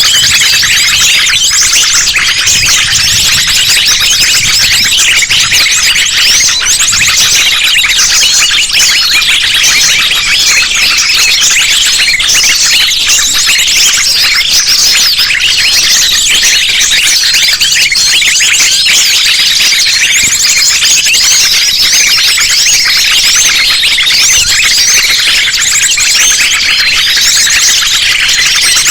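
A dense, unbroken chorus of small songbirds, sunbirds among them, giving fast high chirps and trills over one another: a mixed bird-lure recording made to draw small birds in.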